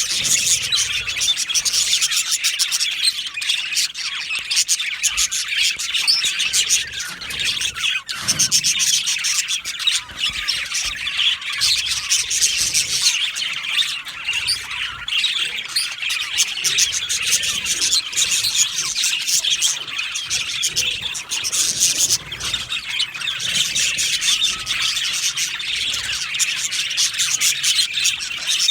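A colony of budgerigars chirping and chattering all at once, a dense, unbroken mix of many overlapping short calls and squawks.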